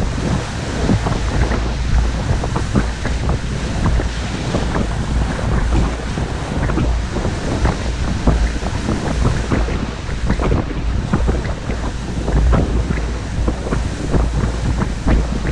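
Lake waves splashing and breaking on the shore in strong wind, with heavy wind buffeting on the microphone making a constant low rumble.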